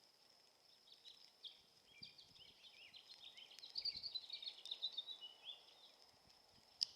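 A small songbird singing a long, fast, jumbled warbling song of quick chirps, loudest in the middle and ending about a second before the end. A faint steady high-pitched tone runs underneath, and a single sharp click comes near the end.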